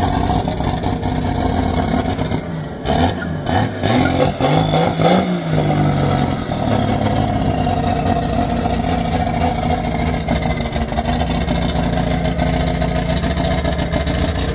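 A vehicle engine running, revved up and back down once about four to six seconds in, then running steadily.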